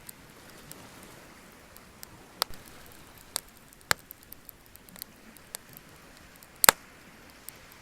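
Bonfire wood crackling, with irregular sharp pops and snaps, the loudest a little before the end, and smaller ticks between.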